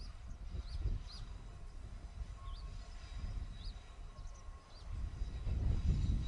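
A distant Ichibata Electric Railway train approaching, heard as a low rumble that grows louder near the end, while a small bird chirps over it about once a second.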